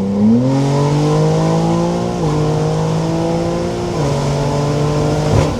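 Twin-turbo Lamborghini Huracán STO's V10 accelerating hard, its pitch climbing and dropping twice at upshifts, about two and four seconds in. A short sharp pop comes near the end.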